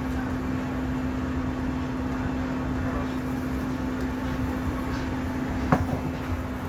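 Steady hum inside a Boeing 737-900ER airliner cabin before departure, the cabin air system running with a constant low tone over a low rumble. A single sharp click about six seconds in.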